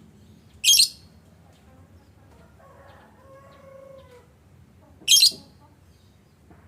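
Lovebirds giving two short, sharp, high-pitched shrieks about four and a half seconds apart, with a fainter drawn-out bird call in between.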